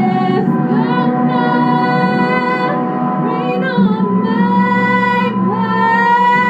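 A woman singing a show tune, holding long notes with vibrato and sliding between them.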